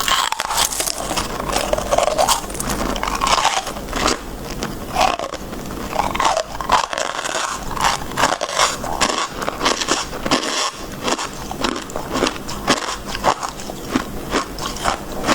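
Crisp freezer frost being bitten and chewed, a dense run of irregular crunches and crackles.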